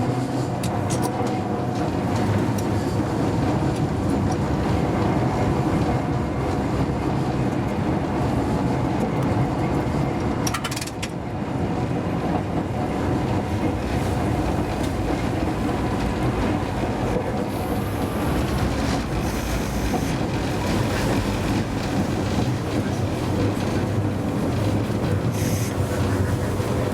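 Hakodate city tram car No. 530 running, its motors humming steadily under the rumble of the wheels on the rails, as heard from the driver's cab. A few brief high-pitched sounds come in the second half.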